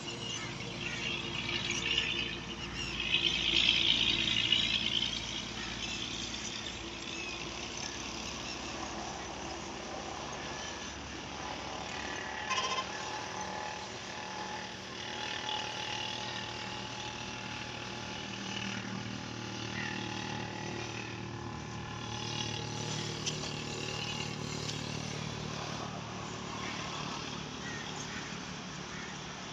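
Road traffic: cars, trucks and motorbikes passing in a steady mixed drone, with a louder high-pitched sound about two to five seconds in.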